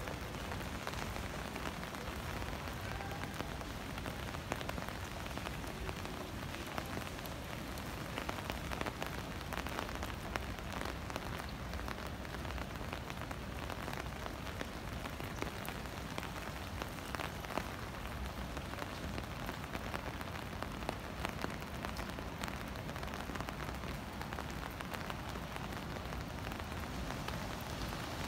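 Steady rain, an even hiss peppered with many small ticks of individual drops.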